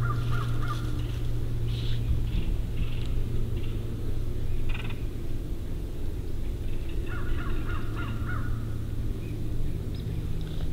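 Birds calling in woods over a steady low rumble: a few short harsh calls in the first five seconds, and quick chattering runs near the start and about seven seconds in.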